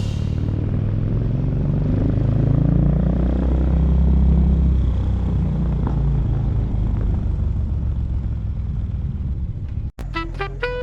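Yamaha SR400's single-cylinder engine running through a GOODS slip-on muffler, its revs rising then settling back to a steady run. The sound cuts off suddenly near the end.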